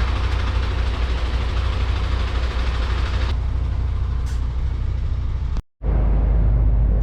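MAN TGX diesel lorry running on the move: a steady low engine drone with broad road noise over it. The higher noise falls away about halfway through, and the sound drops out for a moment near the end before the drone returns.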